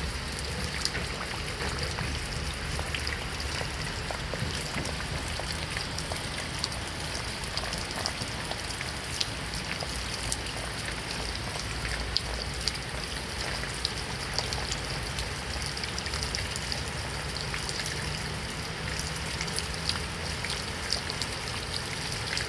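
Heavy rain falling steadily, with many sharp drops ticking close by against the steady wash.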